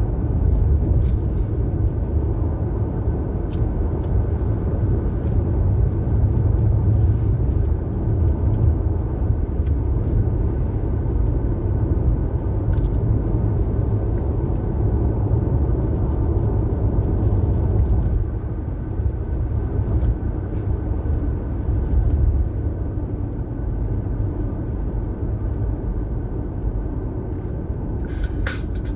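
A car being driven: steady low rumble of engine and road noise, easing slightly about two-thirds of the way through.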